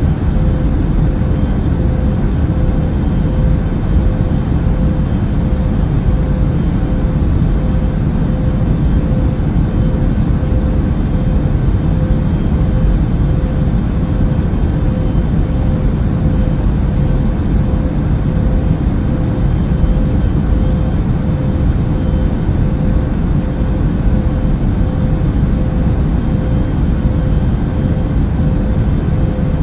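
Airbus A380 cabin noise in cruise flight: a steady, deep rush of engine and airflow noise with a constant hum tone over it.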